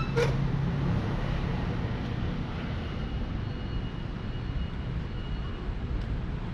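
Street traffic: a low, steady rumble of vehicle engines, with an engine hum that fades about a second in. There is a sharp click just after the start.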